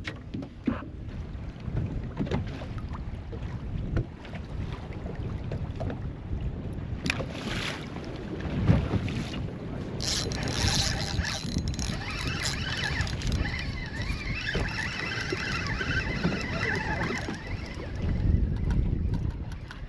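Motorboat running under way, engine and hull noise mixed with wind buffeting the microphone.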